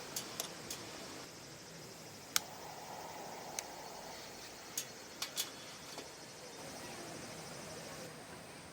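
Scattered sharp clicks and snaps, about nine in the first six seconds, over a faint steady high hiss.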